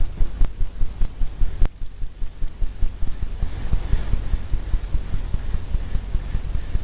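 A 2-inch brush scrubbing paint onto a canvas, making rapid low thumps about four or five times a second as the canvas flexes under the strokes.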